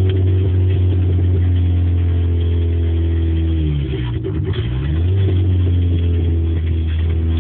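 Fifth-generation Honda Civic four-cylinder engine running with no exhaust system fitted, giving a loud, steady drone. About four seconds in the revs dip briefly and then climb back to the same pitch.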